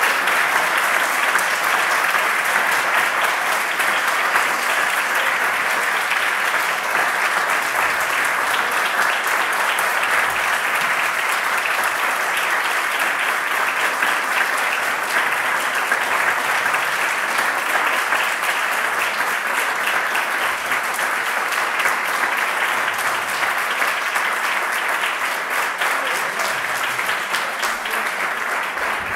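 Audience applauding: dense, steady clapping of many hands.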